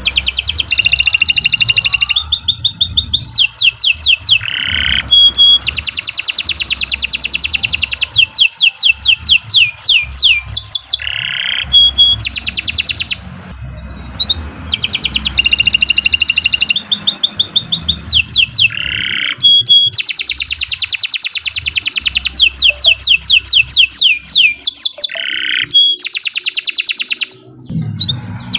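Domestic canary singing a long, loud song of fast rolling trills: runs of quickly repeated notes that change from one tour to the next, with short breaks about halfway through and near the end.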